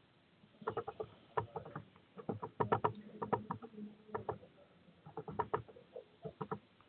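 A small bird at a feeder, right by the microphone, making quick tapping and scratching clicks in short bursts as it pecks and shifts its grip on the wire and feeder.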